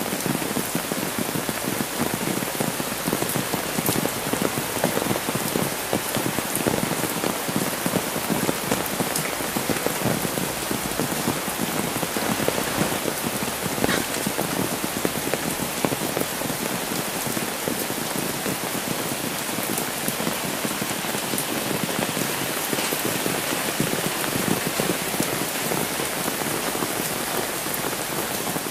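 Heavy rain falling steadily on a wet road and foliage: a dense, even hiss of rain with many close individual drop hits.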